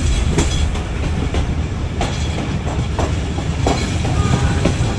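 Diesel-hauled passenger train running on the track: a steady low rumble with irregular sharp clicks from the wheels passing over rail joints.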